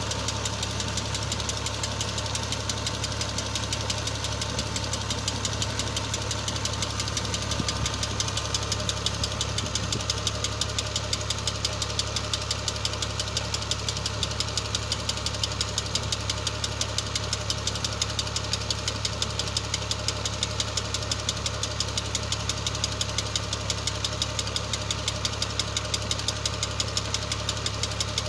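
New Holland Ghazi diesel tractor engine running steadily with a rapid, even beat, driving a tubewell pump through a shaft.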